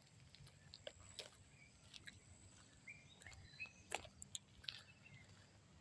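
Quiet outdoor background with a few faint, short bird chirps and scattered sharp clicks, the loudest about four seconds in.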